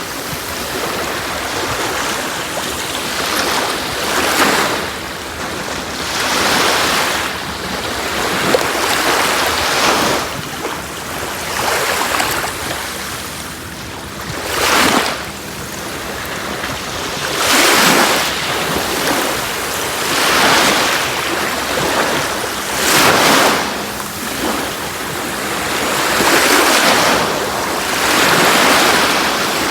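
Sea waves breaking on a beach, one wash of surf after another every two to three seconds.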